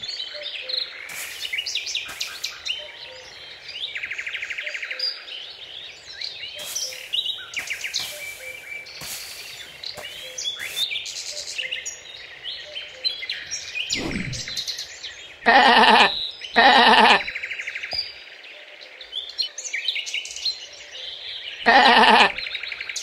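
Small birds chirping and singing throughout, with a sheep bleating loudly three times: twice in quick succession a little past the middle and once near the end.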